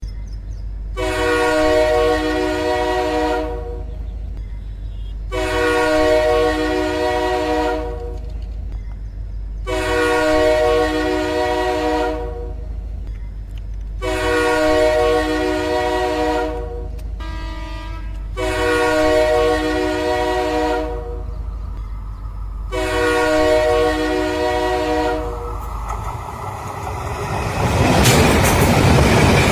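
Train horn sounding six long blasts about four seconds apart, with a short fainter one in between, over a steady low rumble of the approaching train. Near the end the train passes close by in a rising rush of wheel and rail noise.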